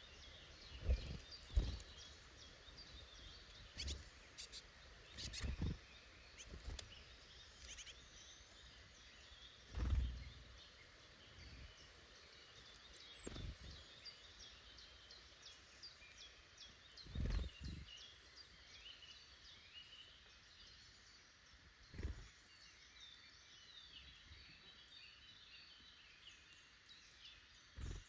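Small woodland birds chirping and singing, faint and steady. About seven brief low thumps stand out above them.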